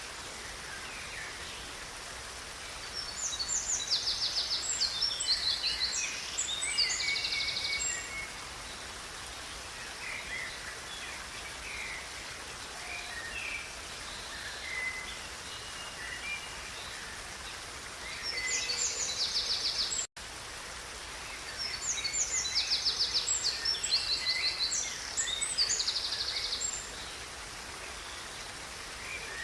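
Songbirds singing in bursts of fast, high trills and chirps over the steady rush of a flowing river. The sound cuts out for an instant about two-thirds of the way through.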